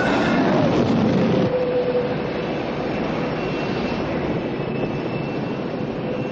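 Helicopter turbine engines and rotors running as a steady noise with a faint high whine; the sound changes abruptly about one and a half seconds in.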